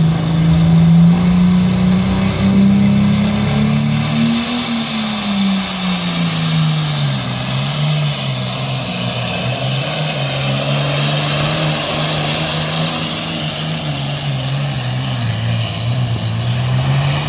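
Modified pulling tractor's 640-cubic-inch engine running hard at full throttle under load during a pull. Its note climbs about four seconds in, then drops and holds lower, rising slightly again near the end.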